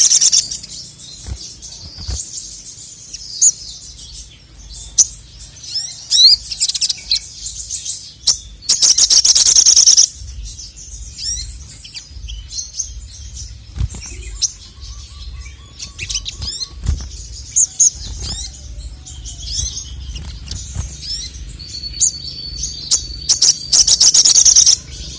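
Male sogon (sogok ontong), a sunbird, singing: high thin chirps and quick sweeping twitters, broken twice by loud rapid trilling runs, about nine seconds in and near the end.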